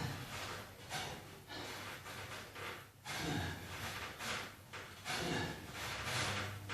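A man breathing hard from exertion during a weight-training set: forceful, noisy exhales and gasps, about one a second.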